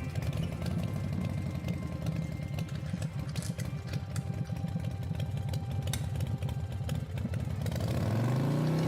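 Motorbike engine idling with a fast, choppy beat, then revving up in a rising whine near the end.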